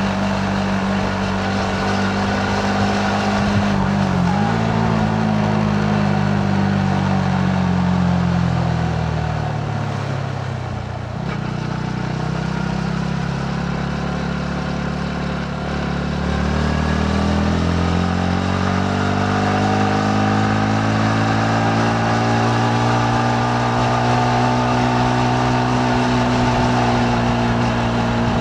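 Yamaha MT-15's single-cylinder engine under way. Its note falls over several seconds as the bike slows, then climbs steadily again as it accelerates, and holds level near the end.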